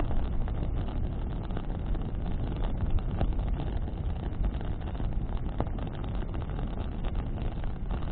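Bonfire burning in a wind: a steady low rumble of flames and wind buffeting the microphone, with a few sharp crackles of burning branches, one about three seconds in and another over five seconds in.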